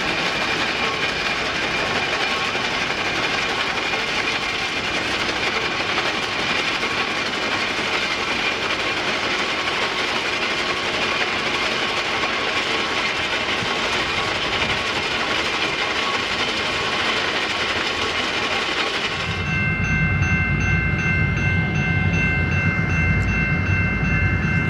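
A train rolling along the rails with a steady, even noise. About nineteen seconds in, the sound cuts abruptly to a heavier low rumble, with several steady high tones held over it.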